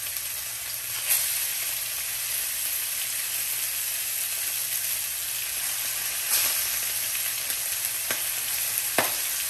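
Tuna steaks frying in hot melted butter, a steady sizzle that flares up three times as more steaks are laid into the pan.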